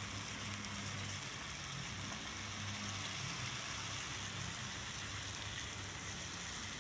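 Sambal tumis of chilli paste and anchovies sizzling steadily as it cooks in a frying pan, with a low hum underneath.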